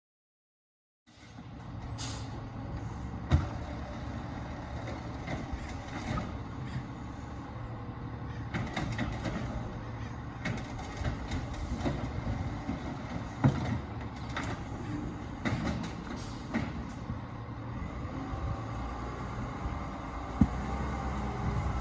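Crane Carrier LET2 garbage truck with an Amrep side loader, its engine running steadily with scattered clanks and knocks.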